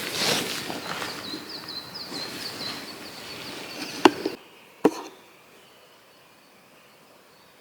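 Crackling with a high insect trill behind it, then two sharp wooden knocks about four and five seconds in; a little after four seconds the sound drops away to a faint background.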